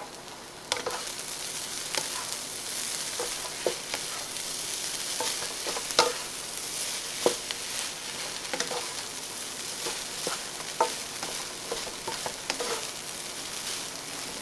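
Fried rice sizzling in a hot wok as it is stirred and tossed with a spatula, with scattered scrapes and taps of the spatula against the pan. The sizzle picks up about a second in.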